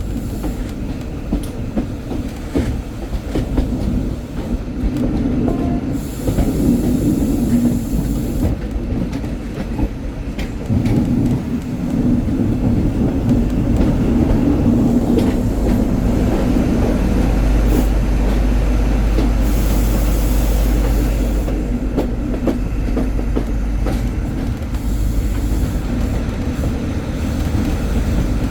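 Class 43 HST train running, heard from a coach behind the power car: a steady rumble of wheels on the rails with clicks from the rail joints over a diesel drone. It grows louder about eleven seconds in and stays heavier after that.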